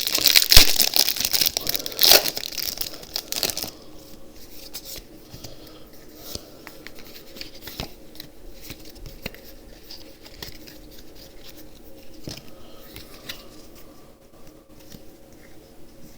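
Foil booster-pack wrapper being torn open and crinkled, loudest in the first few seconds. After that come quieter rustling and light clicks as the pack's contents are handled.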